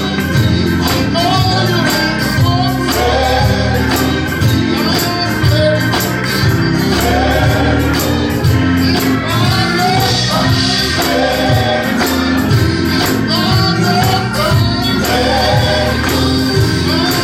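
Gospel worship music: a choir singing over a band with a bass line and a tambourine shaking in a steady beat.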